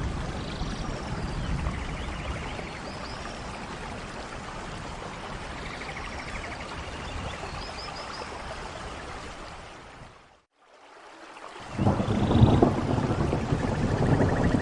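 Steady rain with birds chirping through it. About ten seconds in, the sound fades briefly to silence, then returns louder, heavier rain with a low rumble.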